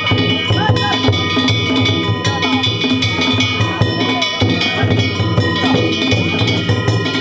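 Danjiri-bayashi festival music: a taiko drum beating a fast, steady rhythm under the continuous clanging of hand-struck kane gongs.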